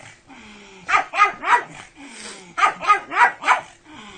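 Dog barking: three quick barks about a second in, then four more in a row near the end.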